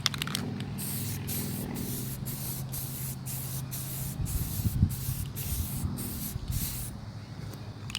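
Aerosol spray-paint can hissing in a string of short sprays with brief gaps between them, as the paint is swept on in fan strokes; the spraying stops about a second before the end.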